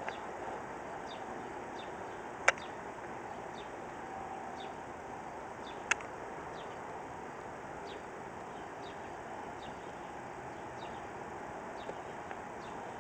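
Faint, repeated short chirps of small birds over a steady background hiss, with two sharp clicks a few seconds apart.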